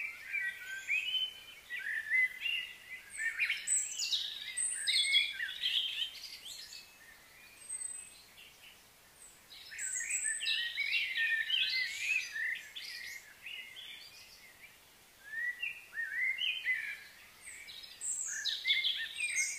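Small birds chirping and singing in three bouts of quick, fluttering high notes, each a few seconds long with brief pauses between.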